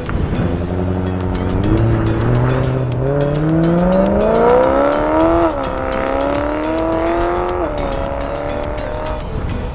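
BMW M3 V8 engine revving: its pitch climbs steadily for a couple of seconds, drops sharply about five and a half seconds in, then holds and drops again near eight seconds. Background music with a steady beat plays underneath.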